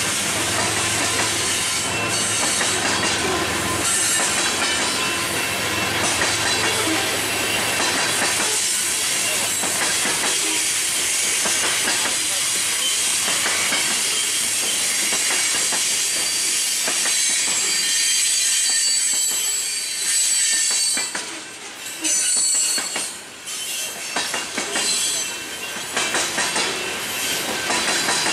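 Covered hopper cars of a BNSF freight train rolling past close by: steel wheels on rail with a steady hiss and thin, high wheel squeal. The level dips briefly a few times in the last third.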